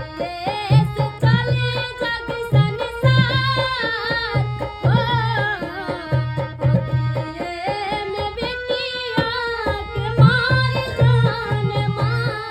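A girl's voice singing an ornamented, wavering melody, with a steady rhythm of low drum strokes underneath.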